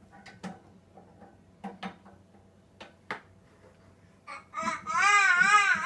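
A few light clicks and clinks of dishes being set into a dishwasher rack, then from about four seconds in a toddler's loud wavering vocalizing, the pitch swinging up and down.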